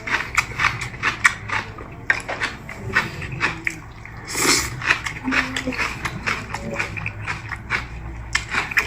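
Close-miked mukbang eating sounds: a person chewing and biting food, with quick wet clicks and smacks following one another closely.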